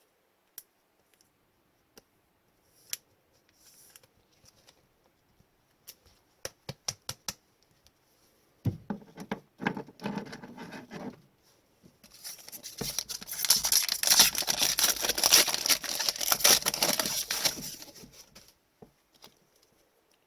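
Trading-card packs being handled and opened: light clicks and taps of cards, then a long, loud rustle and tearing of a pack wrapper about twelve seconds in.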